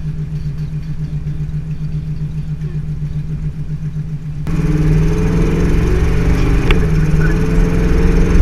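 Chevy 350 small-block V8 running through Flowmaster mufflers, with a steady low pulse for the first half. About halfway through it gets much louder and climbs in pitch as the car accelerates, a sound heard as "so loud".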